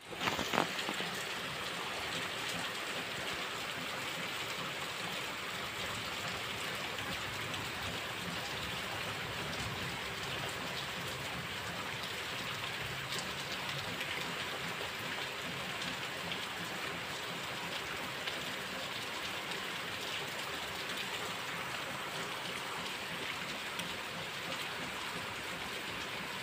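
Heavy rain falling steadily onto a paved street, a constant even hiss of drops on the wet asphalt. There are a few brief knocks just after the start.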